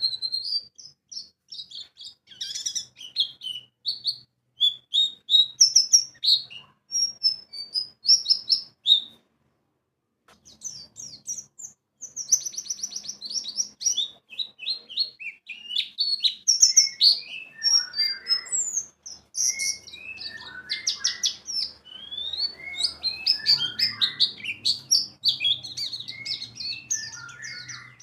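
White-eye (pleci) song: rapid strings of high, thin chirps and trills, played as a lure to set other white-eyes singing. The song stops briefly about nine seconds in, then resumes and grows busier toward the end.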